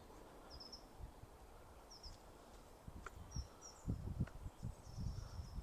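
A small bird calling in short high double chirps, repeated several times, over faint outdoor background noise. Low muffled bumps on the microphone come in the second half, the loudest sounds here.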